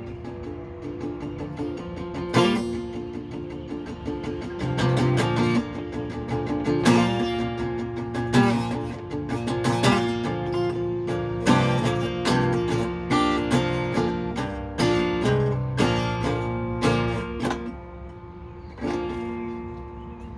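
Acoustic guitar strummed in chords, with no singing. The strumming thins out near the end to a single strum and ringing notes.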